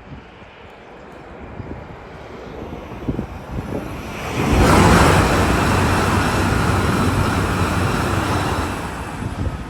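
Train passing close by at speed: a rush of wheels and air that builds gradually, then jumps to full loudness about four and a half seconds in, holds for several seconds and starts to fade near the end.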